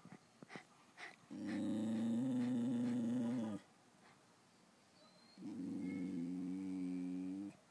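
Miniature American Eskimo dog vocalizing in two long, low, drawn-out calls of about two seconds each, the second a little quieter. A few short clicks come just before the first call.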